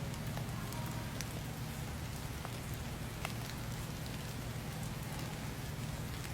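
Steady rain falling, with scattered single ticks of drops.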